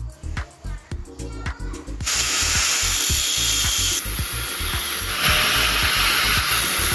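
A power tool running with a loud, even hiss, starting abruptly about two seconds in, over background music with a steady beat.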